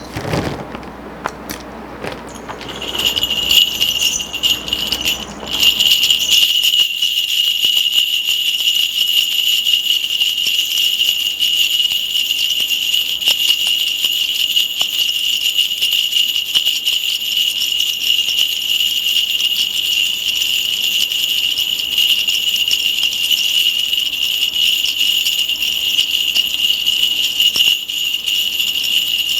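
Korean shaman's ritual bells shaken continuously in a steady, loud jingling that starts about three seconds in and grows stronger a couple of seconds later.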